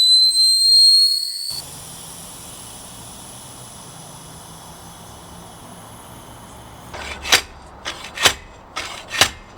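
A loud high whine rising slightly in pitch, cut off about a second and a half in, then a steady low hum. From about seven seconds in come sharp metal strikes about twice a second: hammering to knock a stripped wheel-lock nut off a car wheel.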